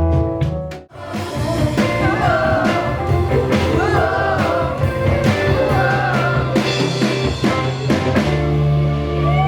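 Live band music with a singer's wavering vocal line over drums and bass, in a blues, swing and rock 'n' roll style. The music breaks off abruptly about a second in and jumps to another passage.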